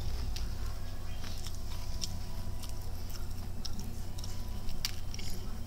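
A person chewing a mouthful of breaded fried chicken tender with closed lips: scattered faint mouth clicks and smacks, one sharper click about five seconds in, over a steady low hum.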